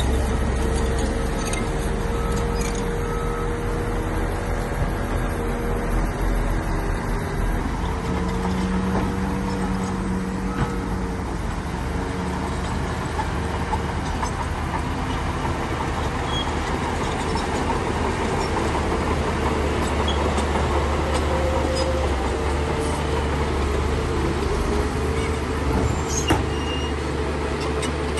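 Diesel engine of heavy earthmoving machinery running steadily under load, with a deep rumble and a sharp knock near the end.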